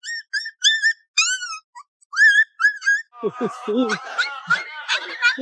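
A quick run of short whistled notes, some sliding up or down in pitch, for about three seconds. Then a noisy stretch of lower, bending calls begins.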